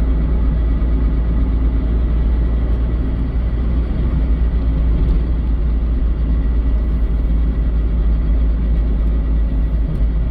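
Mazda Eunos Roadster (NA8C) with its 1.8-litre four-cylinder running: a steady low rumble and engine hum, with a thin steady high tone over it. The car has an abnormal noise that the owner hears as something dragging or rubbing.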